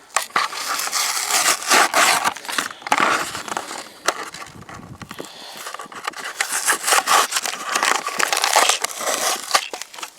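Toy packaging being torn and wrenched open by hand: a dense, irregular crackling and crinkling with many sharp snaps.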